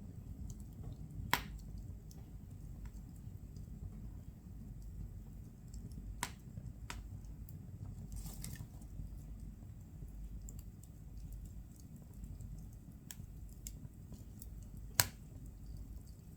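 Firewood burning in a fireplace, crackling: scattered small ticks over a low steady rumble, with two sharp pops, one about a second in and one near the end, and a brief hiss about halfway through.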